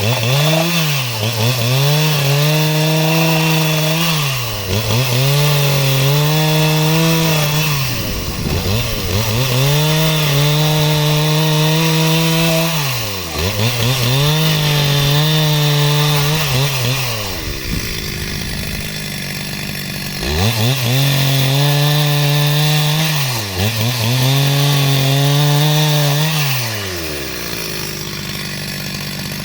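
Two-stroke chainsaw running at high revs while cutting wood into rafters. The engine pitch sags and recovers every few seconds and drops to a low rumble three times, around 8 seconds in, around 18 seconds in, and near the end.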